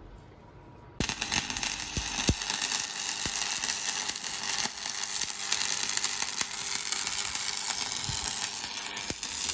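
Stick (SMAW) welding arc with an E6013 mild-steel electrode, struck about a second in, then a steady crackling sizzle with irregular pops while running a vertical-up fill pass.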